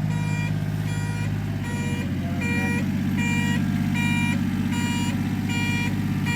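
Mini fire truck's electronic siren sounding a repeating beep, one short steady tone about every three-quarters of a second, over the truck's small engine running.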